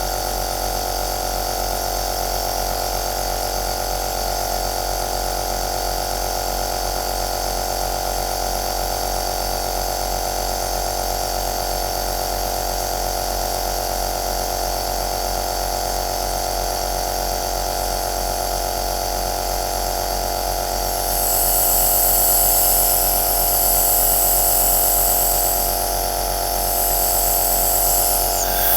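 Compressor nebulizer motor running steadily: a humming drone with a constant hiss of air. About two-thirds of the way through, a louder, higher hiss swells in twice.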